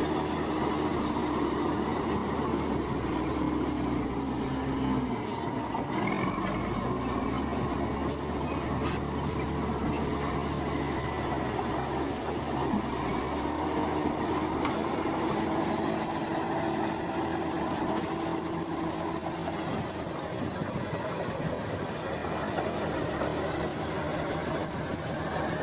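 Crawler bulldozer at work: its diesel engine runs steadily, with metallic squeal and clatter from the steel tracks. The engine note shifts about five seconds in.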